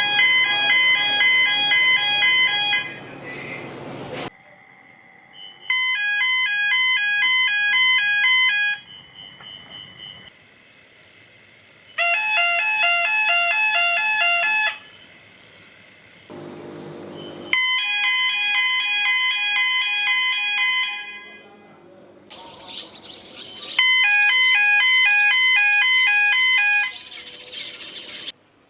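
Thai railway station 'blue lamp' signal alarm: an electronic multi-tone chime repeating a quick pattern several times a second. It sounds in several separate bursts of about three seconds each, with quieter background between.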